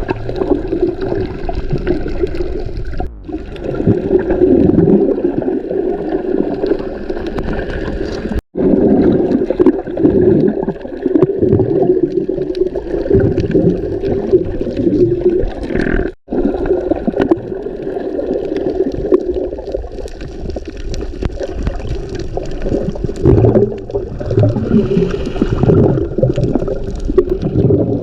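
Muffled underwater water noise from a snorkeler's camera: water rushing and gurgling around the housing. It breaks off abruptly twice where clips are joined, about eight and sixteen seconds in.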